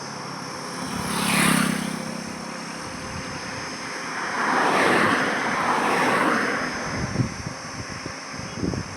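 Highway traffic. One vehicle passes close about a second and a half in, with a low engine hum and tyre hiss. A second passes around five seconds in with a broad tyre rush. Near the end there is uneven low rumbling.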